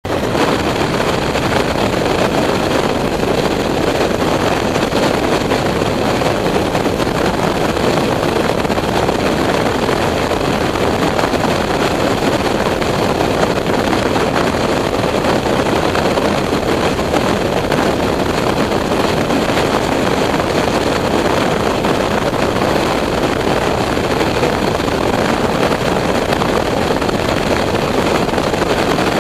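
Steady rush of a motorcycle ride: wind buffeting the microphone over the engine and road noise, unbroken throughout.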